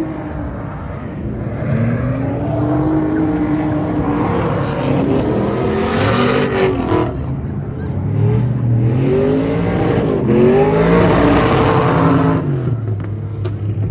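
A high-performance car engine accelerating hard twice, its pitch climbing each time to a loud peak of noise before it drops back.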